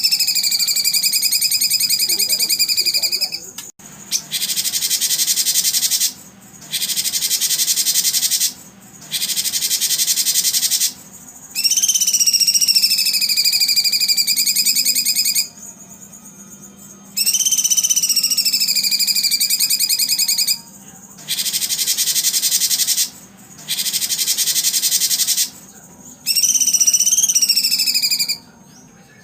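Recorded animal calls of the kind played to train contest songbirds. High, rapid pulsing trills that dip slightly in pitch alternate with harsh, dense buzzing, each burst lasting two to three seconds with short pauses between.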